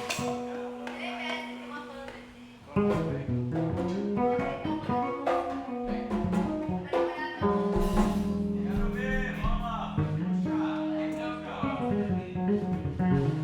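Live improvised band music led by plucked guitar, with sustained low notes underneath. It jumps in loudness about three seconds in.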